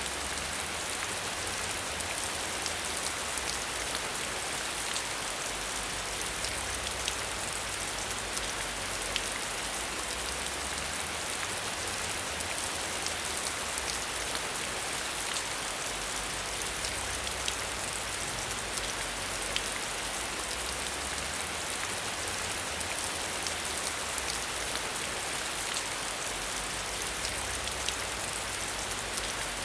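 Steady rain, an even hiss of falling water with scattered distinct drop ticks and a low rumble underneath.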